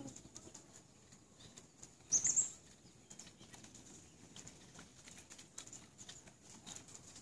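A bird gives one short, high, rising chirp about two seconds in, over faint scattered light ticks.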